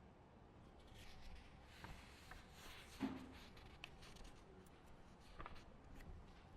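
Quiet library ambience: faint rustling of paper and small scattered taps and clicks, with one soft knock about three seconds in.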